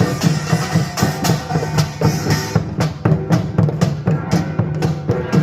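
Korean pungmul percussion ensemble of gongs and drums playing a fast, dense rhythm. The bright metallic top thins out about halfway through while the drumming carries on.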